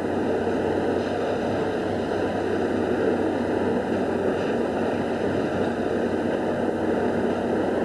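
Steady, unbroken machine noise of a Plasser rail track maintenance machine running.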